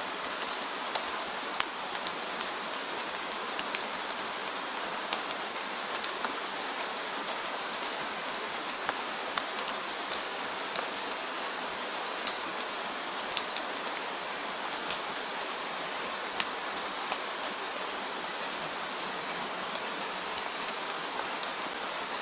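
Steady rain falling, an even hiss with scattered sharp drop impacts throughout.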